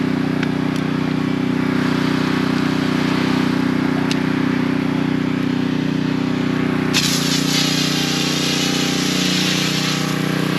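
Small gas engine of a pressure washer running steadily. About seven seconds in, a loud hiss of water spray starts suddenly and the engine note shifts as it takes the load, which is typical of the black soap tip being used to soak the wall with cleaning solution.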